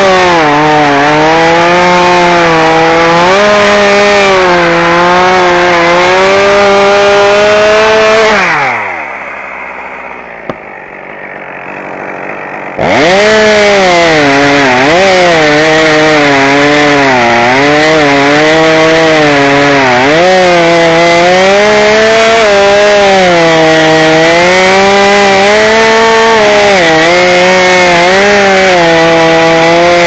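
Chainsaw running at high revs, its pitch dipping and recovering again and again as it works through wood. About eight seconds in the throttle is let off and the engine winds down to idle for about four seconds, then it revs straight back up and keeps cutting.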